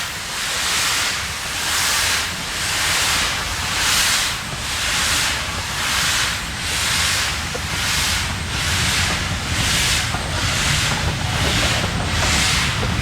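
Steam locomotive working at low speed, with steady, regular exhaust chuffs about three every two seconds. A low rumble from the train grows louder in the second half.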